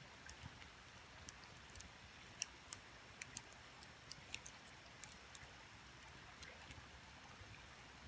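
Wood campfire crackling, with sharp irregular pops and snaps, the loudest two close together about two and a half seconds in, over the faint steady rush of a creek.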